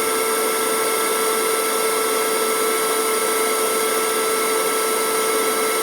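Battery-powered vacuum cleaner running steadily with a constant whine, sucking up yellow jackets at the nest entrance.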